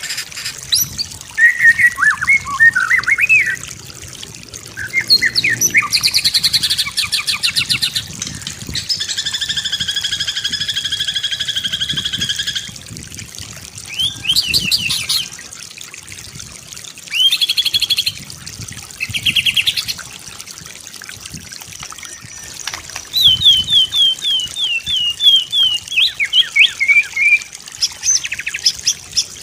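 A white-rumped shama sings a varied song: quick whistled notes, fast rattling trills, a steady held note lasting a few seconds, and near the end a run of short notes stepping down in pitch.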